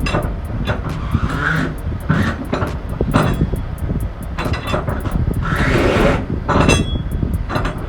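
Heavy vehicle running with a deep rumble and constant rattling and clicking, and a rush of hiss about five and a half seconds in.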